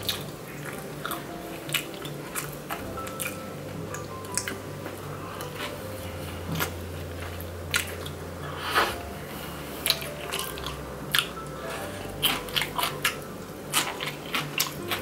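Close-miked biting and chewing of crispy-crusted Chicago deep-dish pizza: many sharp crunches and crackles from the mouth, over quiet background music.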